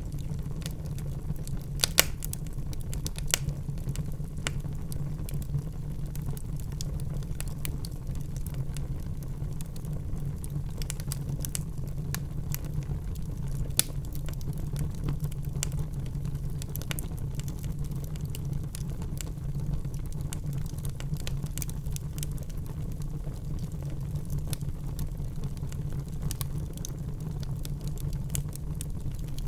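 Fire crackling in a fireplace: a steady low rumble of flame under frequent sharp pops and snaps, the loudest about two seconds in and again near fourteen seconds.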